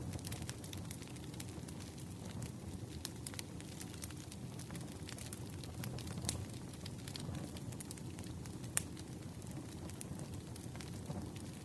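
Wood campfire crackling, with frequent small sharp pops and snaps over a low steady rumble, and one louder pop about nine seconds in.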